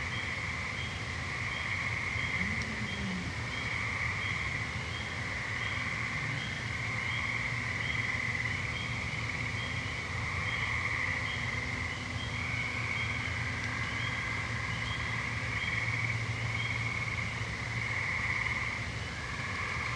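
A chorus of gray treefrogs, their trills overlapping in stretches of a few seconds. Faint short higher calls repeat about twice a second, over a low steady hum.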